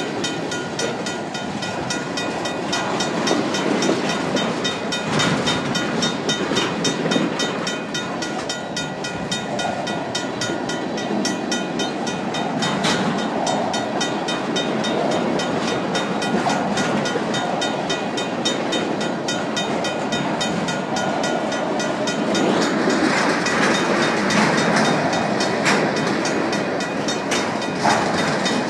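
Loaded tank cars of a freight train rolling past close by: steel wheels running on the rails with clickety-clack over the joints, swelling and easing as the cars go by. Behind it, a railroad crossing's mechanical bell rings steadily.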